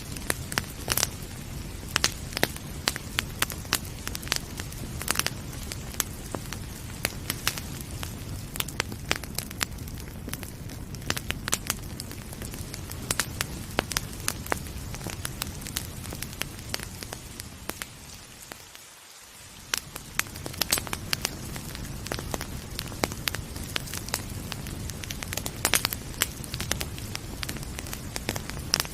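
Wood fire crackling with frequent sharp pops over a steady hiss of rain. The sound fades down briefly and comes back up about two-thirds of the way through.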